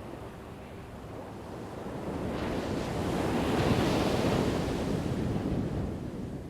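Ocean waves crashing: over a low steady surf rumble, one wave builds from about two seconds in, breaks loudest near the middle, then washes away.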